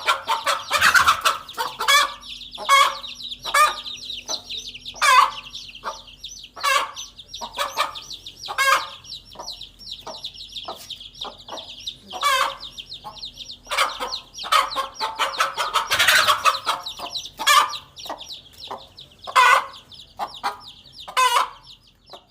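Mother hen clucking repeatedly in short, sharp calls about once a second, with louder, denser flurries near the start and about two-thirds of the way through, over the constant high peeping of her chicks.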